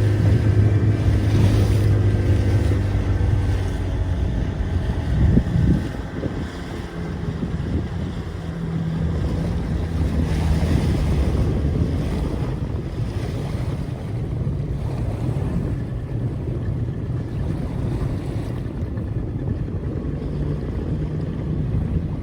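A boat's motor running steadily under way, with wind buffeting the microphone and water rushing past the hull.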